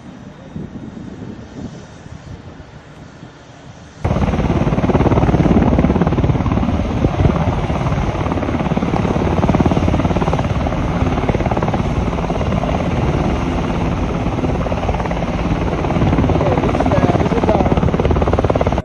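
Helicopter rotor and engine noise, loud and close, cutting in suddenly about four seconds in after quieter wind-blown noise.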